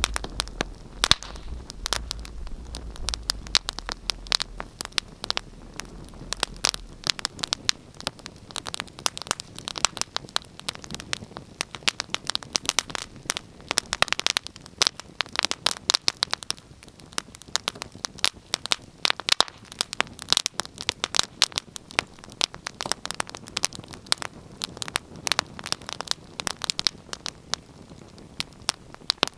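Wood fire burning in a fireplace, crackling with dense, irregular sharp pops and snaps over a faint hiss. A low rumble runs under the first several seconds, then stops.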